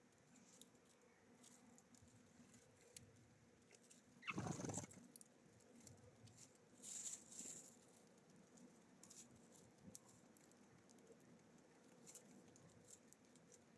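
Small birds feeding at a bird feeder: faint scattered pecking and seed-cracking taps and scratches, with a louder brief rustle about four seconds in.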